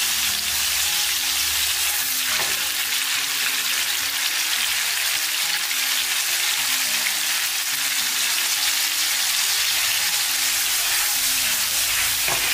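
Cubes of tender tofu sizzling steadily in hot oil as they pan-fry over medium heat.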